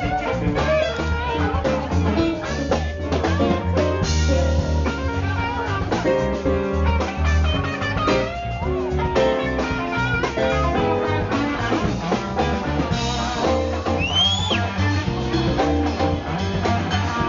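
Live blues band playing, with electric guitar over bass and drum kit. A brief high whistle-like glide rises and falls about fourteen seconds in.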